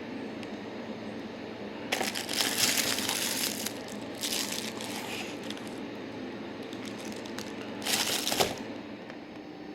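Frozen pizza packaging being handled: crinkling and rustling of the carton and plastic wrap in three bursts, the first and longest about two seconds in, a shorter one soon after, and a brief one near the end.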